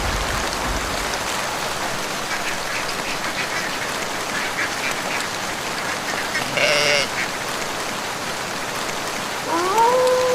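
Steady rain falling in a forest. About two-thirds of the way through comes a short, quack-like call, and near the end a clear tone slides up and then holds steady.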